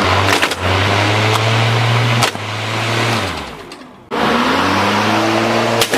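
Gasoline lawnmower engine running steadily, with a few sharp clacks. The engine winds down about three seconds in, and a second run starts abruptly about a second later.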